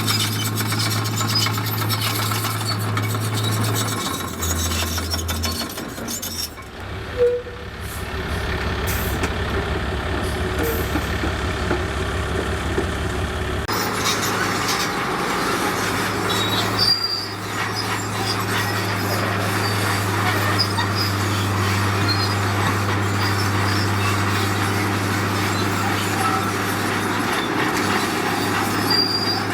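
Heavy diesel construction machinery running, its low engine hum changing pitch and strength several times as the machines work, with one brief loud sound about seven seconds in.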